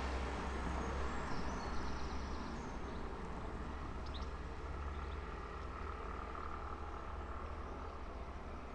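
A car passing on the street and fading away, its noise dying off gradually over a steady low hum. A few faint bird chirps come through about a second and a half and four seconds in.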